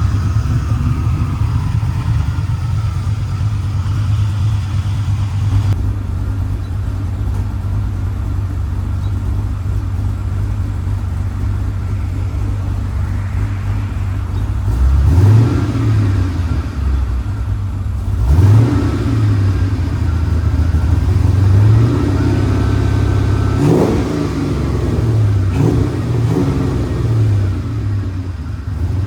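Cammed LS 5.3 V8 idling with a choppy, pulsing exhaust note through a full 2.5-inch exhaust with X-pipe and Flowmaster FlowFX mufflers, then revved up and let fall back several times in the second half.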